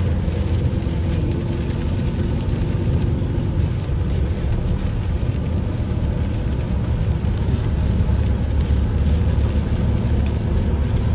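Rainstorm: a steady low rumble under an even hiss, with faint scattered ticks.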